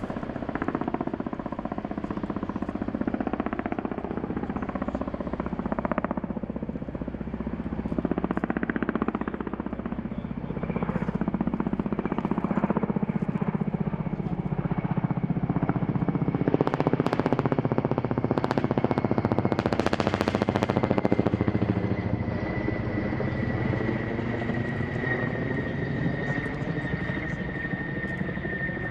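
Firefighting helicopter flying close, its rotor beating rapidly over a steady high turbine whine; it grows louder about two-thirds of the way through.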